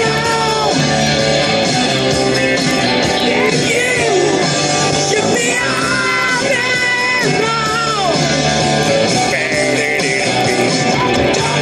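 A song playing on a car radio with loud singing.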